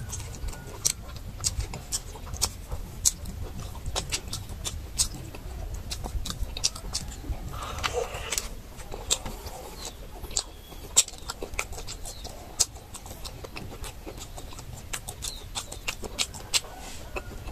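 Close-miked eating sounds: irregular wet clicks and smacks of chewing meat off bones.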